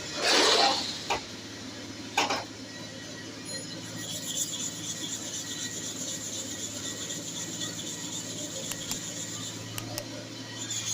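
Hair clipper blade being worked against an abrasive sharpening surface: a steady low hum with rubbing and scraping. There is a loud scrape in the first second and a shorter one about two seconds in.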